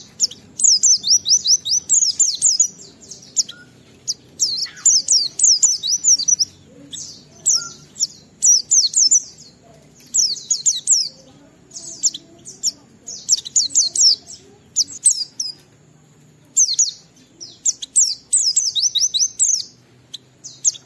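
White-eye (pleci) singing in the long, continuous 'ngalas' style: short runs of rapid, high, quickly falling notes, repeated every second or so with brief pauses between them.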